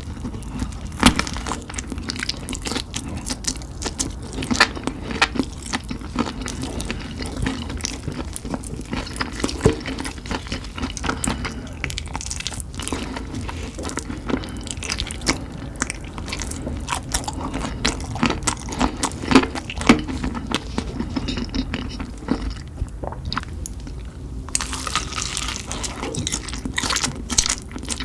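Close-up eating sounds: a person biting and chewing spicy chicken, with irregular crunching and wet mouth clicks. The crunching briefly thins out near the end, then picks up again.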